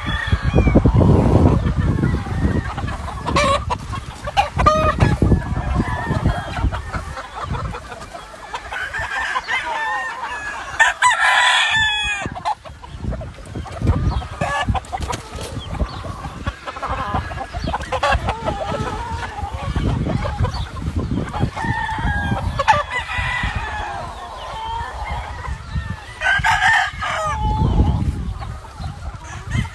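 Gamefowl roosters crowing and chickens clucking, a steady mix of short calls with louder, longer crows about twelve seconds in and again near the end.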